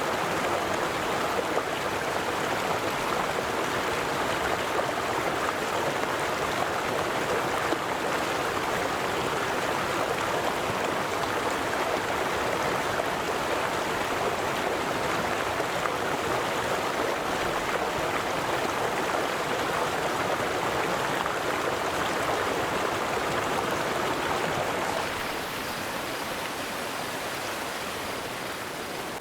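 River water flowing in a steady rush, becoming a little quieter about 25 seconds in.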